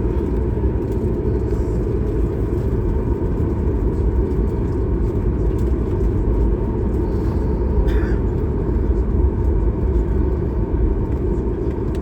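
Steady, loud low rumble of cabin noise inside a Boeing 737 MAX 8: its engines and the airflow, with a faint steady hum on top.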